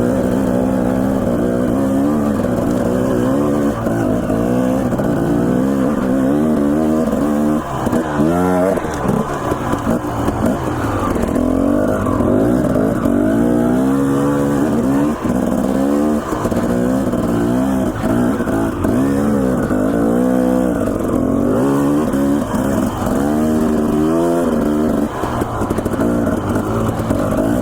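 Dirt bike engine being ridden hard, revving up and down over and over, its pitch rising and falling every second or two as the throttle is opened and closed.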